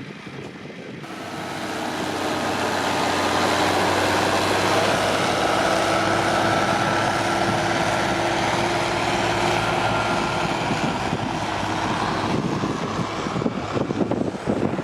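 Pulling tractor's engine running hard under load, with a steady whine over it. It grows louder over the first few seconds, holds, then eases off near the end.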